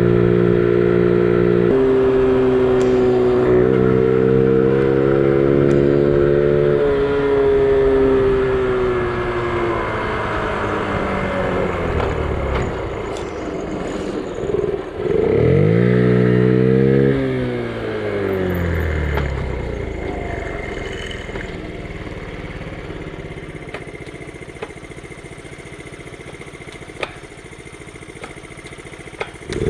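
Honda Gorilla's small four-stroke single-cylinder engine under way. It revs up in steps with drops in pitch between them, with a quick rev up and down about halfway through, then settles lower and quieter, with a short rev near the end.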